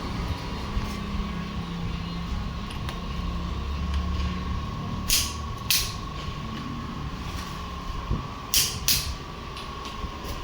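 Tractor engine running steadily with a low rumble and a thin steady whine, broken by four short sharp hisses in the second half.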